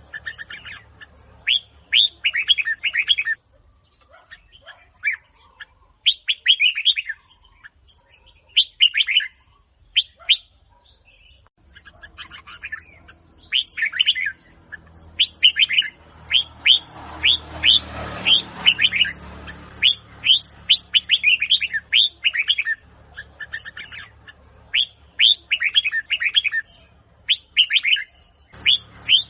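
Red-whiskered bulbul (Huế strain) singing: short, quick phrases of sharp notes repeated in clusters with brief pauses between them. A faint low rumble sits under the song for a few seconds mid-way.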